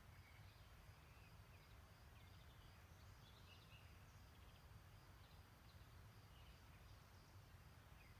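Very faint spring streamside ambience: scattered distant birds twittering in short chirps over a steady low rumble.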